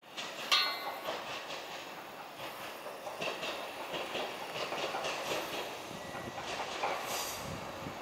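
Single-car KiHa 11 diesel railcar approaching, its wheels clicking over the rail joints, with a sharp ringing metallic clank about half a second in.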